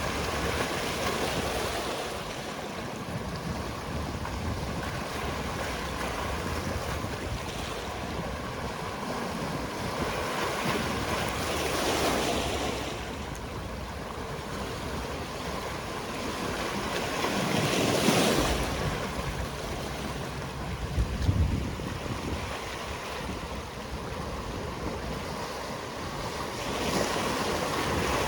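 Sea waves breaking on a rocky shore, a steady wash with a wave surging louder about every six seconds, and some wind noise on the microphone.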